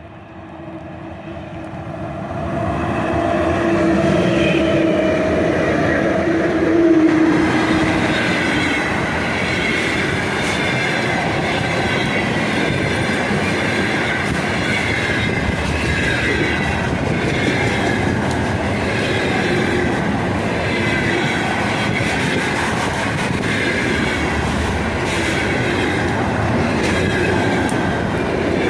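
A 3ES5K 'Ermak' electric locomotive hauling a container freight train comes up loud within about three seconds, humming as it passes. Its container wagons then roll by with a steady rumble and a regular clickety-clack of wheels over the rail joints.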